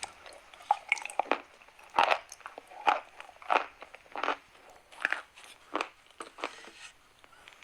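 Chalk being bitten and chewed close to the microphone: a steady run of sharp crunches, about one every three-quarters of a second.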